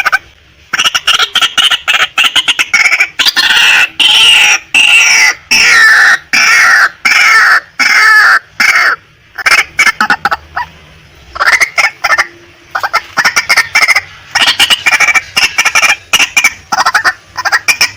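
Female white-breasted waterhen calling: loud runs of rapid, harsh repeated notes, some falling in pitch, with a brief pause about ten seconds in before the calling starts again.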